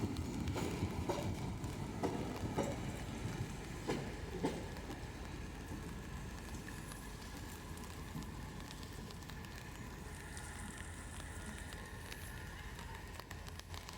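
Work train hauled by a GM G22CU diesel-electric locomotive running by: wheels clack over rail joints several times in the first few seconds, then a steady, quieter rumble of the train continues.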